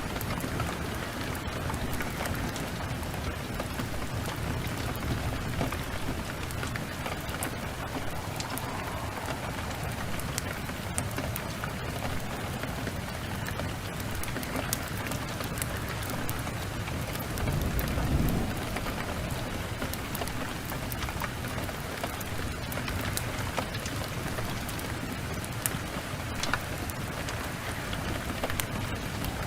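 Heavy rain falling steadily, with scattered sharp ticks and, about two-thirds of the way through, a brief low rumble of thunder.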